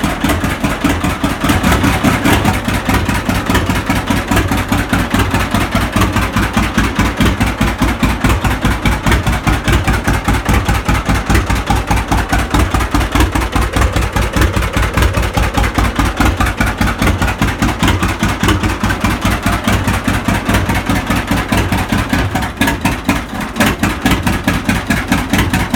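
A 1952 John Deere A's two-cylinder engine running steadily shortly after a cold start in freezing weather, with an even, regular exhaust beat.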